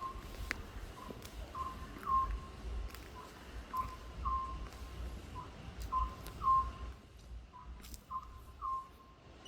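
Oriental scops owl calling: short whistled notes repeated in phrases of about three, roughly every two seconds, with a low rumble underneath.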